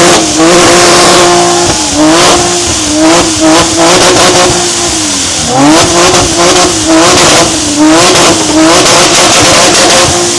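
A modified car's engine revved hard and held at high revs, wobbling slightly, with a short drop and climb back about halfway through. Many sharp pops and cracks from the exhaust sound throughout, and the revs fall away right at the end.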